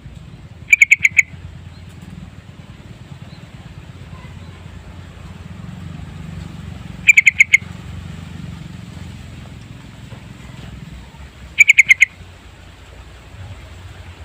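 Yellow-vented bulbul calling in three quick bursts of four or five short, loud chirps, several seconds apart. A steady low hum runs underneath.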